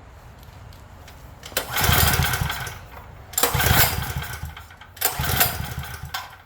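Small generator engine pull-started three times: each pull of the recoil starter cranks the engine for about a second and it dies away without running. The Craftsman generator has a no-start fault.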